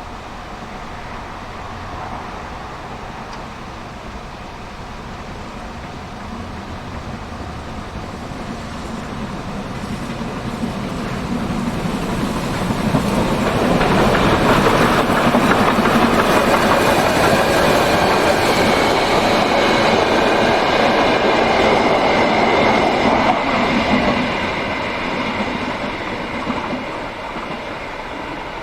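A train passing close by: it grows louder over several seconds, is loudest for about ten seconds in the middle, then dies away near the end.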